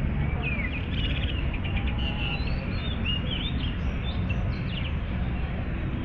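Several birds chirping and whistling in short, quick calls, some sliding up or down in pitch, over a steady low rumble.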